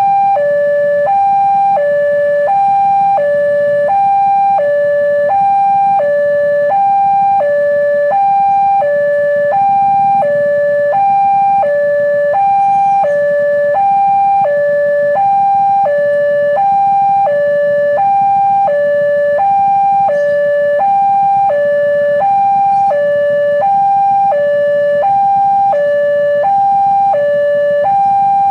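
Railway level-crossing warning alarm sounding a steady two-tone signal, a higher and a lower tone alternating about every three-quarters of a second, with a low rumble underneath.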